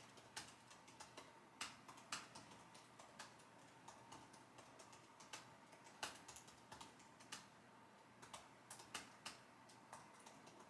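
Typing on a computer keyboard: soft, irregular key clicks with a few sharper taps, at a low level.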